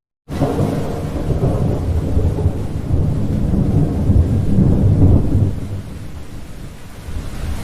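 Thunder rolling over steady rain. A brief dropout at the start, then the deep rumble comes in suddenly, swells to its loudest about five seconds in and dies away, leaving the rain.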